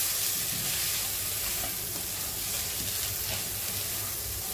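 Shredded boiled egg and chicken masala sizzling in oil in a nonstick pan while a spatula stirs and scrapes through it, a steady hiss with soft scraping strokes.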